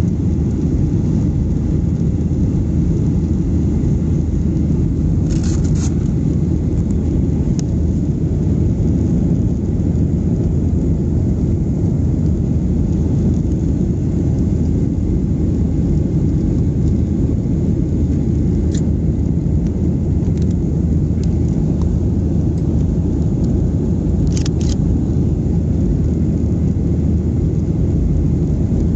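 Steady low rumble inside the passenger cabin of a Boeing 737-800 in flight: its CFM56-7B jet engines and the rushing airflow, with a few brief clicks from cabin fittings.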